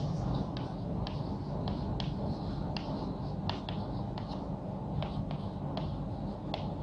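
Chalk writing on a blackboard: a run of short scratchy strokes and sharp taps as letters are written, over a steady low background hum.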